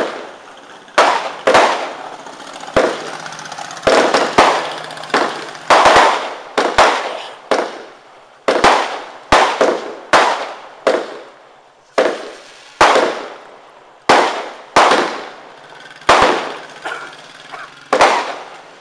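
A 120-shot firework barrage firing shot after shot: a steady run of sharp bangs, a little over one a second and sometimes two close together, each trailing off in an echo.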